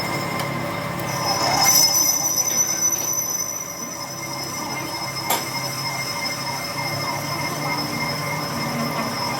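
Machine tool cutting steel, running steadily with a ringing, high-pitched squeal that swells about two seconds in, and a single sharp click a little past halfway.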